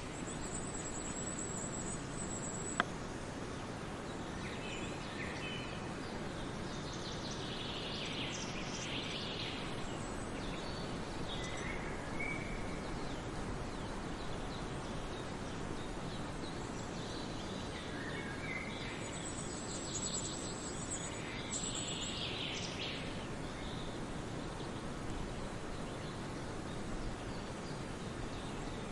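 Several songbirds singing in scattered phrases over a steady background hiss, with a thin high trill heard twice, early on and about two-thirds through. A single sharp click about three seconds in.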